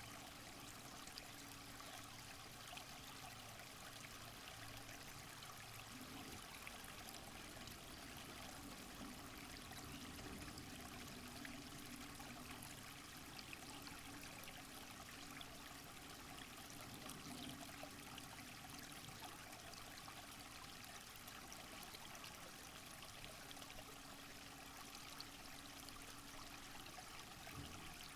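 Faint, steady rush of running water, like a rainforest stream, with a faint low hum that comes and goes.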